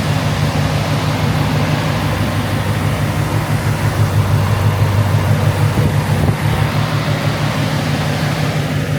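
A Camaro's swapped-in LT4 6.2-litre V8 idling steadily.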